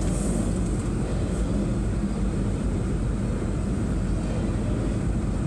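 Double-stack intermodal container freight train rolling past, a continuous low rumble of the cars on the rails, heard from inside a car.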